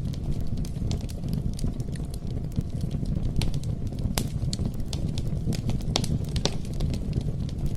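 Campfire burning with crackling: scattered sharp pops and snaps, a few louder ones midway, over a steady low rumble of flame.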